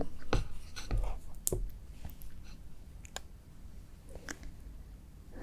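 Frozen shine muscat tanghulu being eaten close to the microphone: a few scattered sharp clicks and cracks from the hard sugar shell, spaced a second or so apart.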